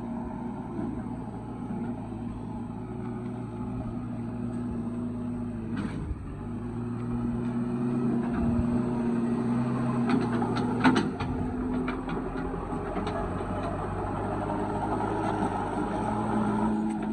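Diesel engines of a JCB 3DX backhoe loader and tractors running steadily while mud is loaded. The engine note rises and grows louder partway through, with a few sharp metallic knocks, the loudest about eleven seconds in.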